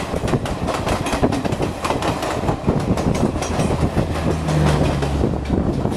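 Express passenger train running at speed, heard from an open coach door: a steady rumble of wheels on rail with rapid clickety-clack and rattling. A low hum briefly joins about four and a half seconds in.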